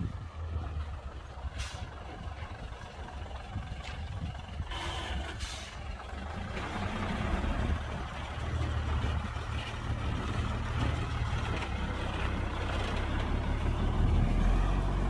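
Heavy diesel construction machinery running with a steady low rumble that grows louder near the end, with short hisses about five seconds in.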